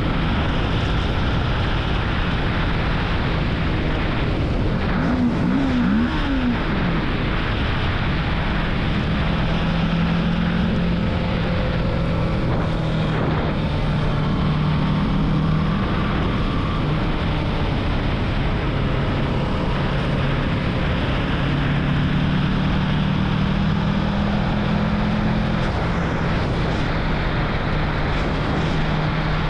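Motorcycle being ridden: a steady rush of wind over the camera microphone with the engine note underneath, its pitch drifting up and down with the throttle. About five seconds in the engine pitch quickly rises and falls twice.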